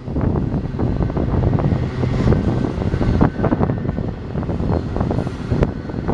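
BNSF intermodal container train rolling past, a steady low rumble with the frequent clicks and knocks of wheels on the rails. Wind buffets the microphone.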